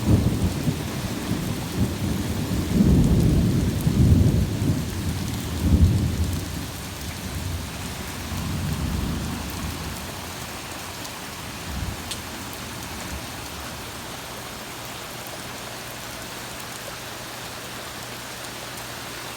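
Thunder rumbling in several rolling swells that fade away about nine seconds in, over steady rain. The rain hisses on alone afterward.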